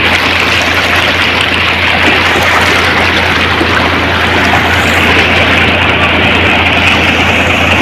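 Loud, steady rushing of floodwater, with a constant low hum underneath.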